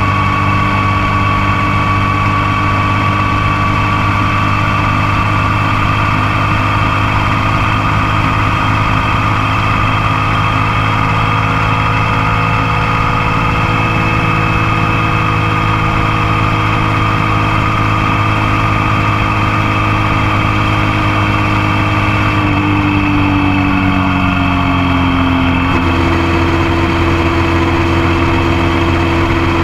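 Motorcycle engine running steadily under way, recorded close up by a camera on the passenger foot peg. About three quarters of the way through, the engine note dips and shifts, then holds steady at a new pitch.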